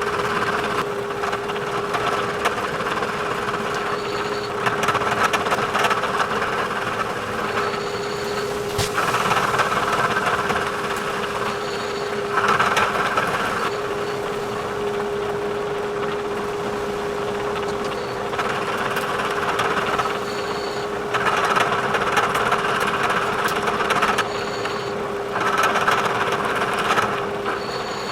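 Bridgeport milling machine running with a steady hum while its cutter mills the end of a small workpiece to length, the cutting noise swelling and easing several times as the cut goes on.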